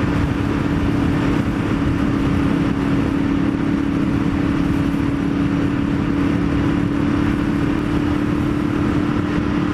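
Ducati Multistrada 1200S with a full Termignoni exhaust cruising at steady highway speed, heard from the rider's helmet: one steady engine drone without revving, largely buried under a constant rush of wind and road noise.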